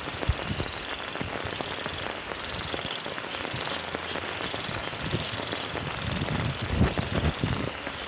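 Steady rain falling, a dense even hiss, with a few low bumps near the end.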